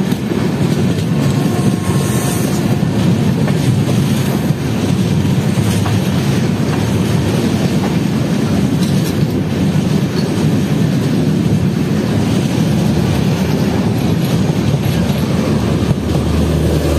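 Passenger train running at speed: a steady rumble and clatter of its wheels on the rails, heard from the side of the coach while running close alongside another train on the next track.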